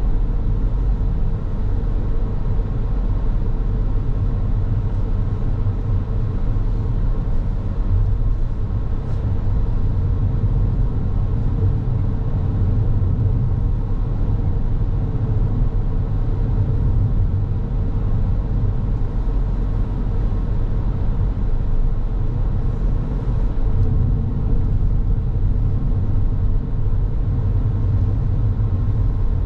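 A car driving along at a steady pace: a steady low rumble of road and engine noise, with a faint steady hum over it.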